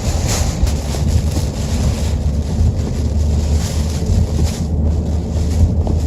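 Hurricane-force wind rushing and buffeting around a moving car: a steady low rumble under a broad hiss.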